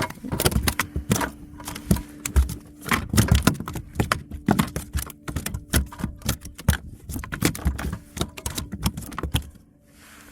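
A rapid, irregular run of clicks, knocks and thumps from a fish and fishing gear being handled in a kayak, stopping near the end.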